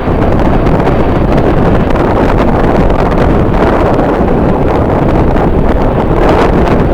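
Strong wind buffeting the microphone: a loud, continuous rumbling roar that swells slightly near the end.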